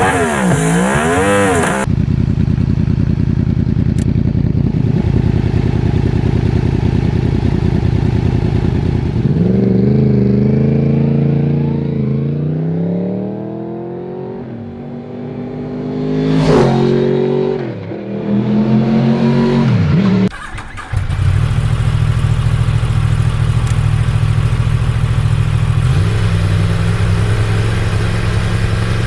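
Yamaha R1 inline-four engine through an aftermarket exhaust, in several spliced clips. A steady drone gives way to a rising acceleration about a third of the way in. It passes close and loud with a falling pitch just past halfway, revs fall, and it settles into a steady low idle-like drone for the last third.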